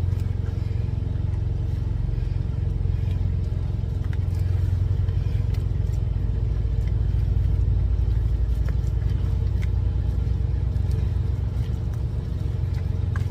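Steady low hum of an idling engine, with scattered faint clicks and scrapes as ground meat is mixed by gloved hand in a bowl.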